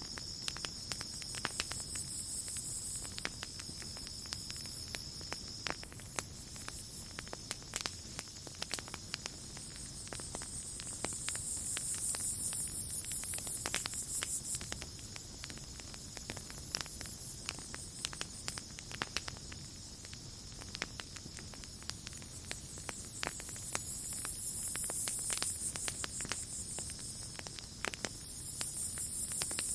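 Campfire crackling, with irregular sharp pops and snaps scattered throughout, over a steady high-pitched chorus of night insects. The insects' higher trilling swells louder a few times.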